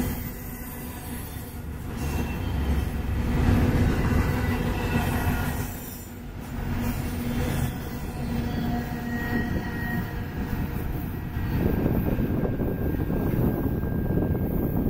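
Double-stack intermodal well cars of a freight train rolling past on the rails: a steady wheel-on-rail rumble with thin, high, steady squealing tones from the wheels.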